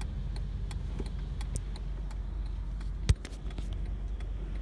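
Inside a moving car in the rain: a steady low rumble of the car on the road, with irregular light ticks of raindrops striking the car and one louder knock about three seconds in.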